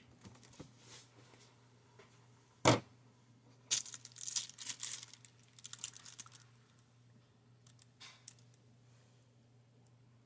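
A sharp knock, then a few seconds of crinkling and rustling handling noise, with a short rustle again near the end, over a steady low electrical hum.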